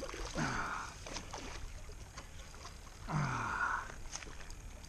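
A man's two strained grunts, one near the start and one after about three seconds, each falling in pitch with a breathy hiss, over low steady background noise.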